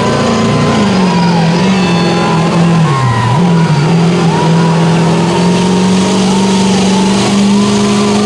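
A mud-bog truck's engine running hard under heavy throttle. Its pitch rises and falls as it is revved, dips sharply about three seconds in, then holds steady.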